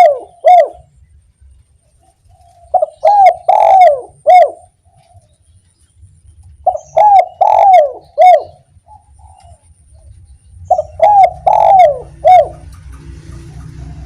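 Spotted dove (derkuku) singing its 'kuk 1' song: a short phrase of about four coos, repeated three times about every four seconds. A low steady rumble comes in near the end.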